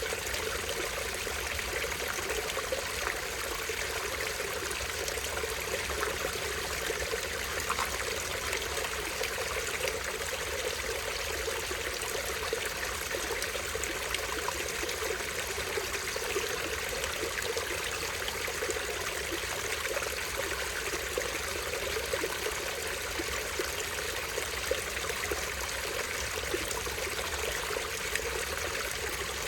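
Small stream spilling over a tiny waterfall: water trickling and splashing, steady and unchanging throughout.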